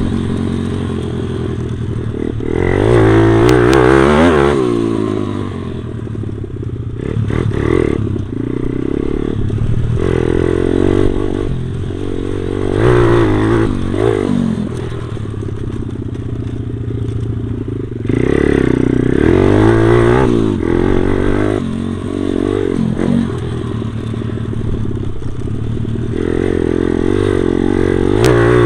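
Stomp pit bike's small single-cylinder four-stroke engine being ridden, its pitch climbing and dropping again and again as the throttle is opened and closed, heard close up from the rider's body. A few clattering knocks come through along with it.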